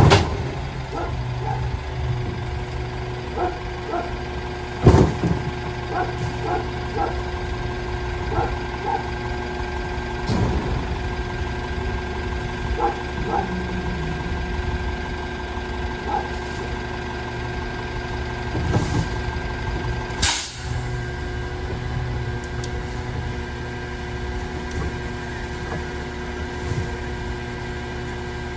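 Mack LR compressed-natural-gas garbage truck with an Amrep side-loader body running steadily, with a steady whine over the engine hum. Scattered knocks come through, a loud knock about five seconds in, and a sharp burst of noise about twenty seconds in.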